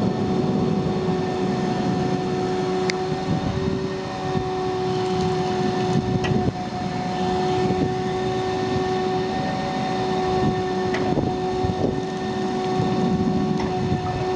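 Vacuum truck running its vacuum system: a steady whine over a heavy low rumble, with a few faint clicks and knocks scattered through.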